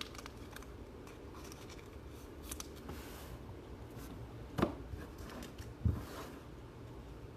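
Trading cards being handled and slid through the hands, giving soft scrapes and ticks over a low steady hum. There is a sharper click about four and a half seconds in and a dull thump about a second later.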